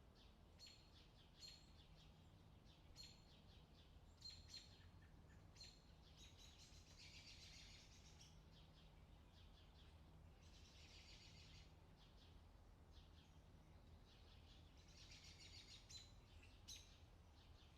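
Outdoor summer ambience: birds chirping in short, repeated calls, with three stretches of dense buzzy trilling lasting a second or two each. A faint, low, steady hum runs underneath.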